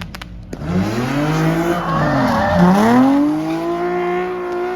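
Car engine revving hard: the pitch climbs, drops about two and a half seconds in, then climbs again and holds high, over screeching tyres as the car spins donuts.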